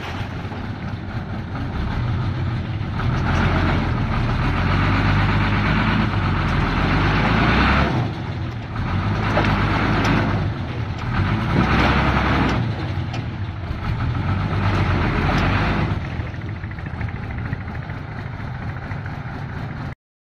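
Modified Hino truck's diesel engine revving hard under load, rising and falling in repeated surges every couple of seconds as it works through deep mud. The sound cuts out abruptly near the end.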